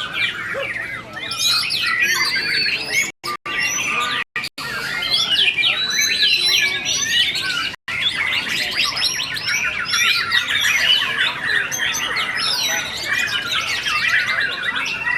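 Several white-rumped shamas (murai batu) singing at once, a dense tangle of overlapping whistles, trills and chattering phrases. The sound cuts out completely for an instant a few times in the first half.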